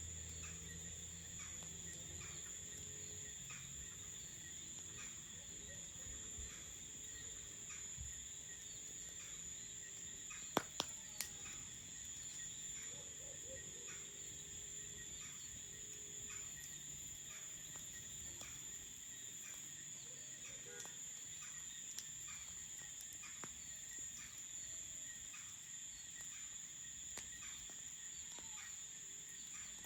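Crickets chirping in a steady high chorus. A quick cluster of three sharp pops comes about a third of the way through.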